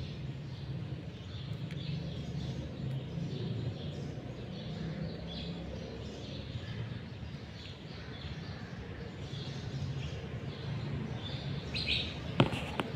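Faint bird chirps over a steady low hum of room noise, with a sharp click near the end.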